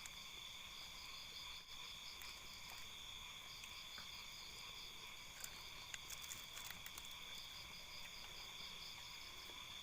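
Night chorus of crickets and other insects: several steady, high-pitched trills at once, one of them pulsing quickly. A few faint clicks come in the middle.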